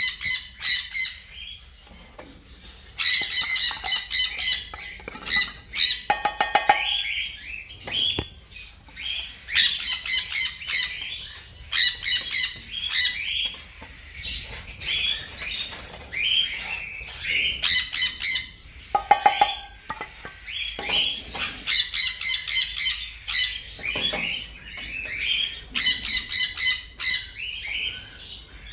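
Parrots squawking loudly in repeated harsh bouts, several birds calling over one another, with a brief rapid rattle about six seconds in.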